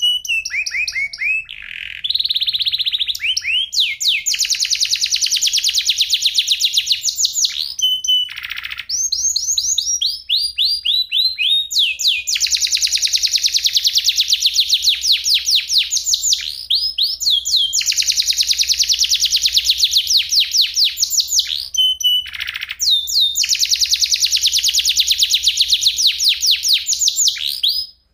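Domestic canary singing long rolled trills: fast runs of high, quickly repeated notes in phrases of a few seconds each, some gliding downward in pitch, with short breaks between phrases.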